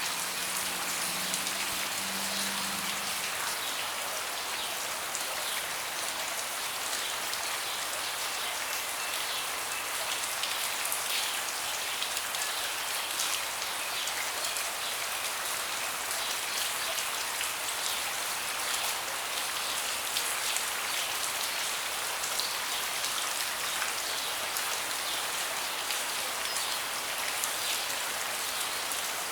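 Steady rain falling on a deck, a dense even hiss speckled with the ticks of single drops. A faint low hum sounds under it for the first few seconds.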